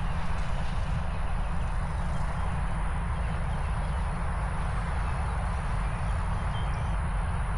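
Wind buffeting the microphone: a steady low rumble with a rushing hiss above it, unbroken.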